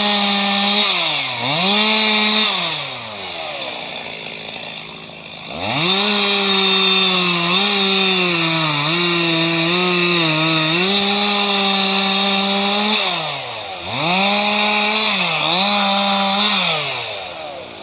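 Two-stroke chainsaw run at full throttle, its pitch sagging slightly under load as it cuts wood. It twice drops back toward idle and revs up again, then winds down near the end.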